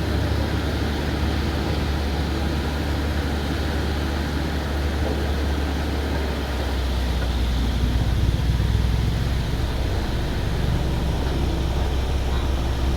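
Waterfall rushing steadily, a dense hiss over a deep rumble that swells slightly about halfway through.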